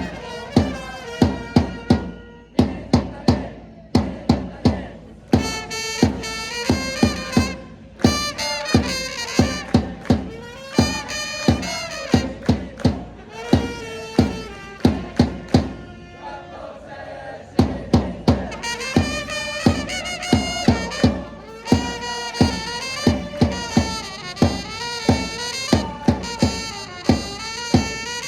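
A Japanese professional-baseball cheering section playing player cheer songs: trumpets carry the melody over steady drum beats, about two a second, as fans chant along. The drums drop out briefly about two-thirds through as one song gives way to the next.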